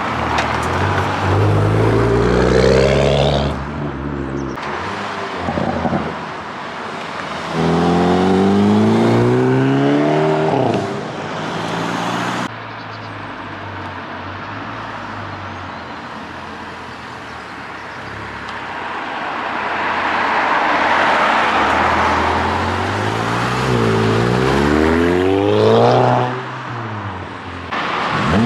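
Modified and performance cars driving past one after another, their engines revving up in pitch as they accelerate, three times over, with one car's noise swelling and fading as it passes close. The sound changes abruptly at a few points, as from cuts between clips.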